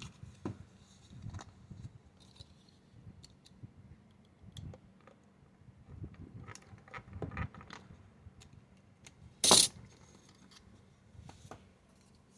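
Small clicks, taps and handling noises of hand work at a model-building bench, with one loud, short rasping noise about nine and a half seconds in.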